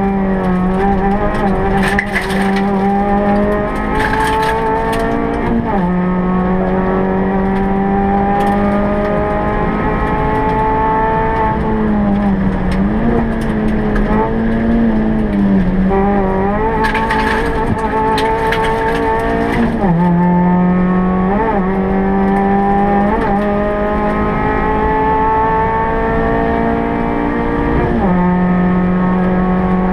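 Suzuki Swift Sport rally car's four-cylinder engine at full stage pace, heard from inside the cabin: the revs climb steadily in each gear and drop sharply at each upshift, with a few quick rev blips between. Short hissy bursts sit on top a couple of seconds in and again around the middle.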